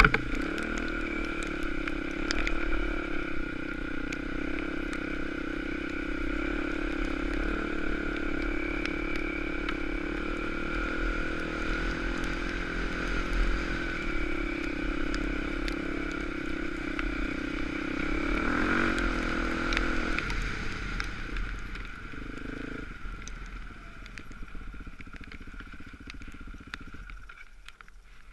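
Dirt bike engine running at a steady pitch under way, with scattered clicks and clatter. About twenty seconds in the engine note drops away and the sound grows quieter.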